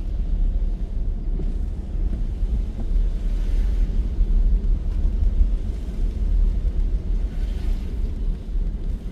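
Car driving on a rain-wet road: a steady low road-and-engine rumble, with a faint hiss that swells a couple of times.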